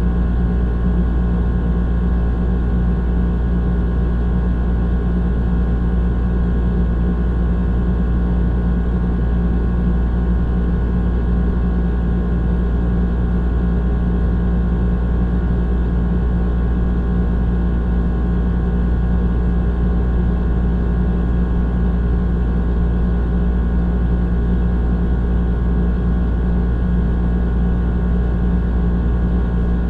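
Old air conditioner running steadily: a constant low hum with a few steady tones and a rushing layer above it, unchanging throughout.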